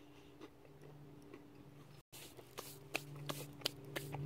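Faint chewing and small mouth clicks from a man eating freshly baked bannock, over a steady low hum that grows louder near the end. The sound cuts out for an instant about halfway through.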